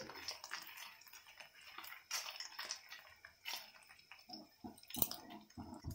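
Paneer cubes and shahi jeera (black cumin seeds) frying in hot ghee in a non-stick kadhai: a light, irregular crackle and sizzle, with the scrapes and taps of a spatula stirring them around the pan.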